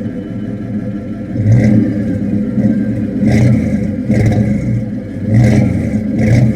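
A car's engine running, revved in five short blips of the throttle, each surge falling back to idle.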